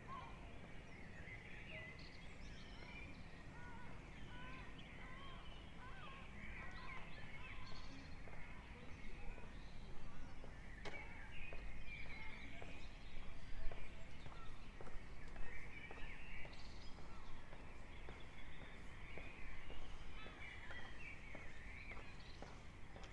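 Songbirds singing in an early-morning dawn chorus: many overlapping high chirps and trills, busier from about a third of the way in, over a steady low hum.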